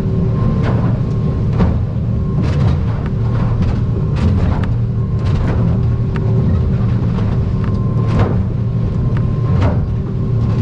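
Aluminium boat running at speed through rough water: a steady outboard engine drone with a steady whine over it, broken by frequent irregular knocks and splashes as the hull meets the chop.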